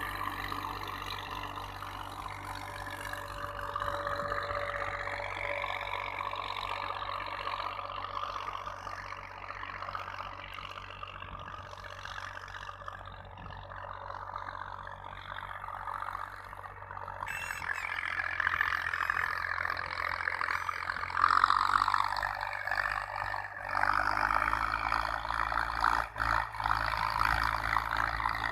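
Farm tractor engine running steadily, growing louder in the second half.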